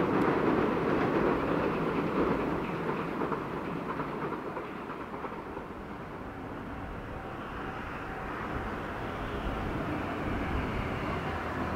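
Train running along the line and fading away over the first half. A lower, steady rumble remains and grows slightly louder near the end.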